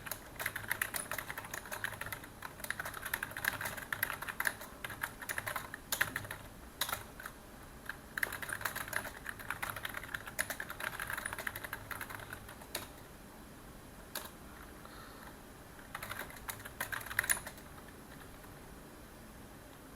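Typing on a computer keyboard in bursts of fast keystrokes with short pauses between, a few single key clicks in the gaps; the typing stops a few seconds before the end.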